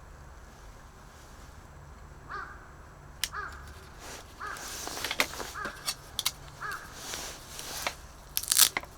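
A bird calling five times, short arched calls about a second apart, over crunching and rustling with sharp clicks that grow louder near the end.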